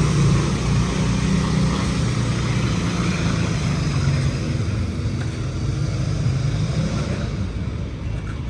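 Tractor engine running steadily at a tractor pull, slowly growing quieter over the second half.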